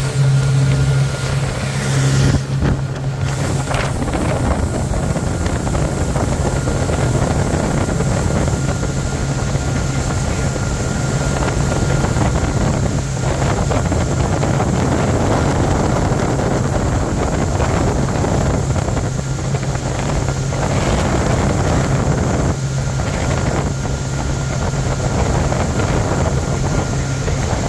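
Motorboat engine running steadily under way, with water rushing past the hull and wind on the microphone.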